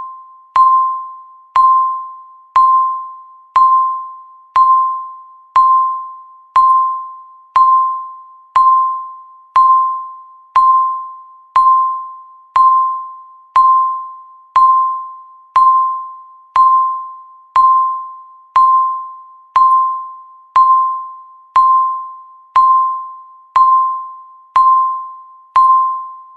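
Countdown timer's electronic beep, one short ding-like tone sounding once a second, each fading out quickly, marking the final seconds before zero.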